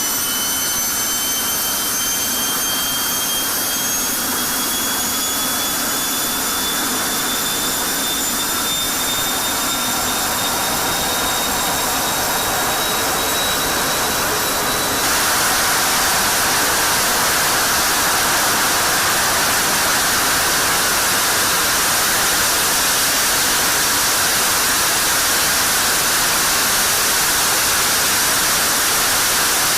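F-16 jet engine on a ground run. Its turbine whine climbs steadily in pitch for about fifteen seconds, then abruptly gives way to a louder, even rush of noise as the afterburner lights.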